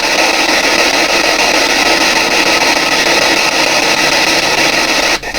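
PSB7 spirit box sweeping radio channels: loud, continuous static hiss, with a brief dropout near the end.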